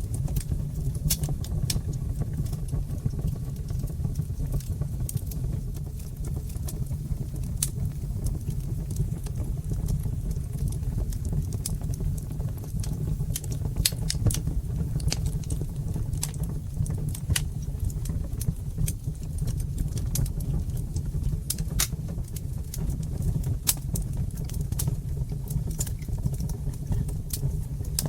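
Wood fire in a brick fireplace crackling: many sharp, irregular pops and snaps over a steady low rumble of the flames.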